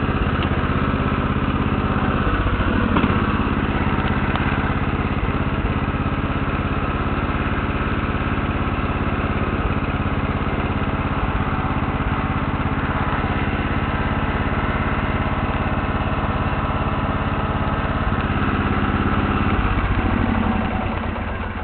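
Lawn tractor engine running steadily at idle, then shut off near the end and winding down.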